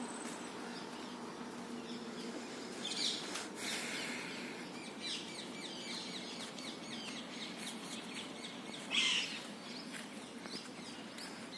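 Birds chirping in short bursts, a few times through the stretch, over a steady low background hum.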